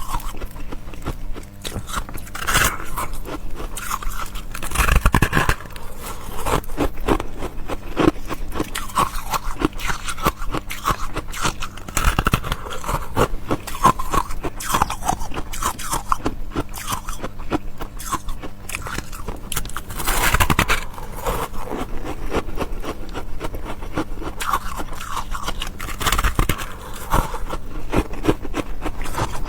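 A person biting and chewing ice, a steady run of crisp crunches with a louder bite every several seconds.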